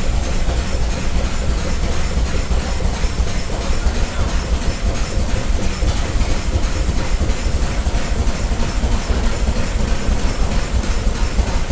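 Vintage stationary engine running steadily, with a fast, even chugging beat.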